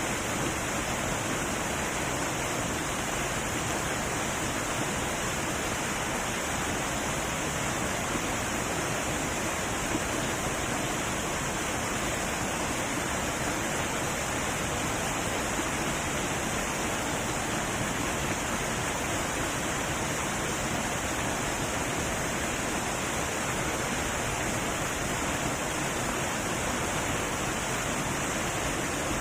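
Heavy waterfall pouring steadily, a dense, even rush of falling water.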